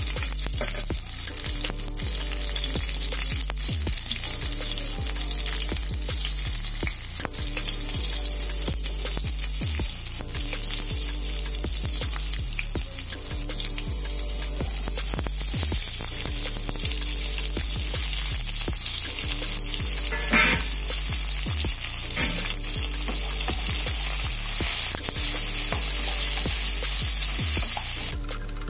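Green chillies and then sliced onions sizzling in hot oil in a pan, stirred with a wooden spatula. The steady hissing sizzle cuts off abruptly near the end.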